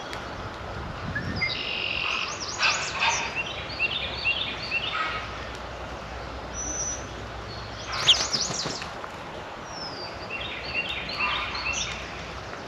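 Songbirds chirping and calling in three bursts of short, high notes, with one sharp call at about eight seconds.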